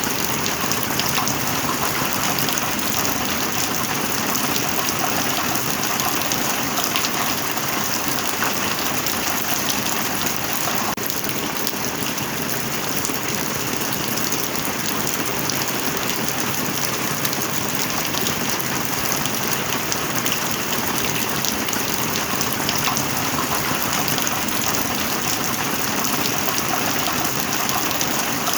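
Heavy rain falling steadily: a dense, even hiss of countless drops pattering on a surface, with no thunder.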